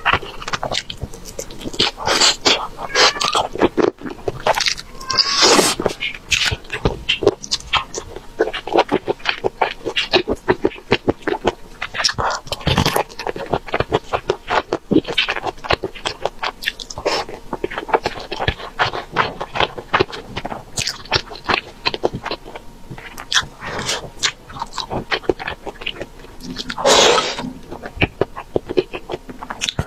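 Close-miked eating sounds: chewing and lip-smacking as chicken wings and rice are eaten, a dense run of short clicks.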